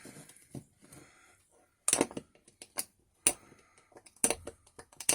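Sharp clicks and taps of hand tools and metal parts on a stripped Morris Minor gearbox while a bearing and its retaining clip are worked loose. The sounds are irregular, with a few louder knocks about two, three and four seconds in.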